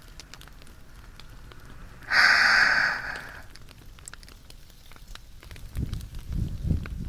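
Bonfire crackling with small scattered pops. About two seconds in, one long breath is exhaled close to the binaural microphone. Low muffled rumbling follows near the end.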